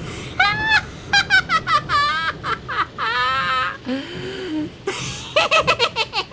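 A high-pitched, cackling laugh: quick runs of short bursts, a wavering drawn-out stretch in the middle, then another rapid run of cackles near the end.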